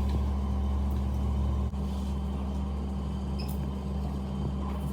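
Steady low electric machine hum. It drops suddenly in level about a second and a half in, then keeps running a little quieter.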